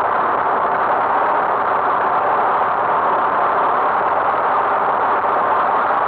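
Tractor engine running steadily, an even, unchanging noise with no let-up.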